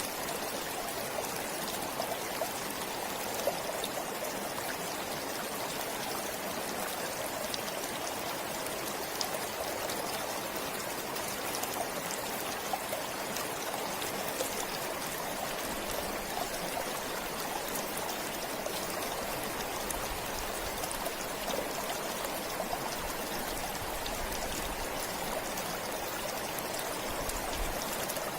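Forest stream flowing steadily, a constant rush of running water with fine splashing.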